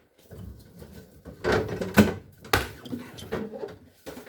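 Handling noise: scraping and rustling broken by a run of knocks and clatters, the sharpest about two and two and a half seconds in.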